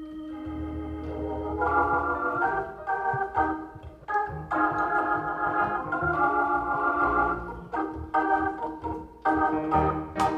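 Organ playing sustained chords over bass notes, changing chord every second or two: the instrumental introduction to the choir's first song.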